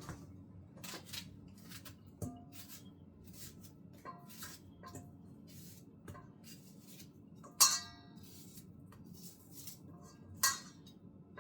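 Knife cutting onion, with a run of light, irregular taps and clicks. Two louder ringing clinks of a utensil against a dish come about two-thirds of the way in and again near the end.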